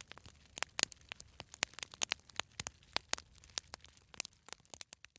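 Fireplace fire crackling: irregular sharp snaps and pops, several a second, over a faint low hum.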